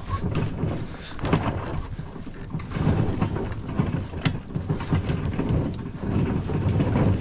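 Kayak on a wheeled kayak trailer being hauled over tree roots: a continuous rumbling with many irregular knocks and rattles as the wheels and hull bump.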